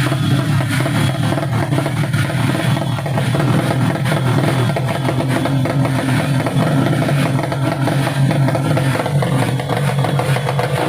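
Motorcycle engine running steadily, a constant low drone with no clear rise or fall in pitch.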